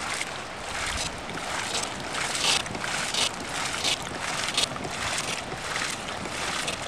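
River water rushing and splashing around a kayak, with a brighter surge every second or so and wind buffeting the microphone.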